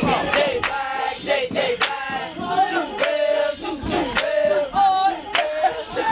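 A group of young men shouting and chanting together over music, with frequent sharp hits.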